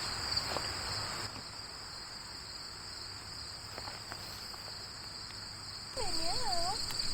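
A steady, high-pitched chorus of insects runs on without a break. Near the end comes a brief wavering vocal sound whose pitch dips twice.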